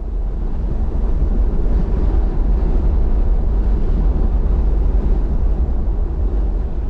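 Toyota Hilux GUN125 on the move: a steady, loud low rumble of its 2.4-litre turbo-diesel engine mixed with road and wind noise, swelling in the first second and then holding steady.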